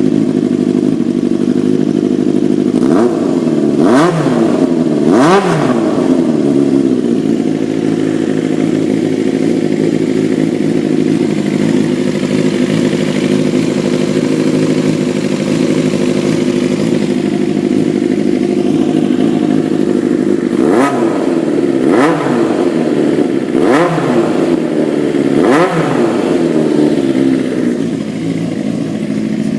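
Honda CBX400F air-cooled inline-four engine idling steadily. The throttle is blipped three times a few seconds in and four more times about two-thirds of the way through, each rev rising and falling quickly. By the seller's account it revs up smoothly with no abnormal noise.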